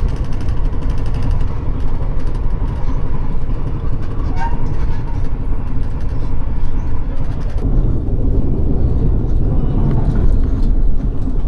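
Passenger train noise: a loud, steady low rumble that grows heavier about two-thirds of the way through.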